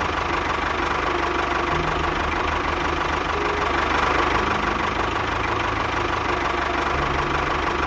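Small engine running steadily with a rapid, even pulsing.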